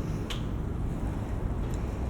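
Wind buffeting the microphone on a moving bicycle, a steady low rumble, with a sharp click about a third of a second in and a fainter click near the end.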